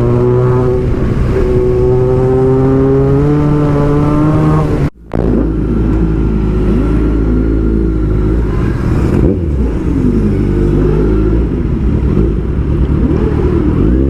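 Motorcycle engine running at road speed, its pitch climbing slowly. About five seconds in the sound drops out for an instant, then engine notes rise and fall over a low rumble.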